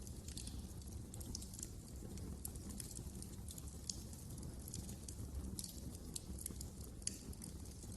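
Wood fire burning in a fireplace, with irregular sharp crackles and snaps over a low steady rumble of the flames. Two louder pops come about four and about seven seconds in.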